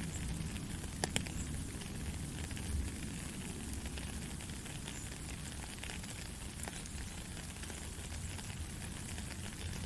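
Heavy rain falling steadily: a dense hiss with scattered sharp drip ticks, two louder ones about a second in, over a low rumble.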